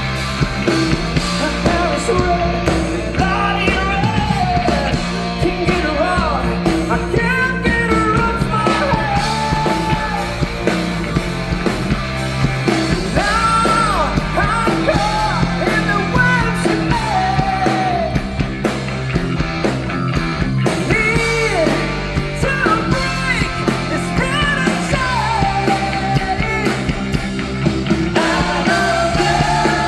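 Live rock band playing, with a lead vocal singing a melody over the full band.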